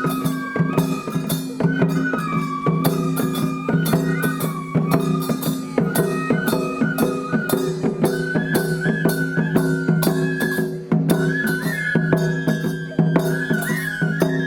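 Traditional Japanese festival music: a flute melody with slides between notes, over steady drum beats.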